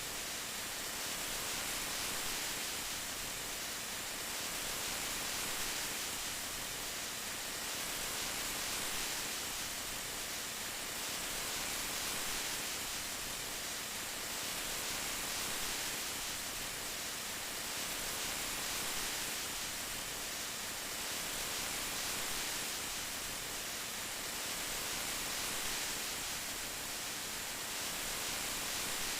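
Steady rain, an even hiss that swells gently about every three seconds.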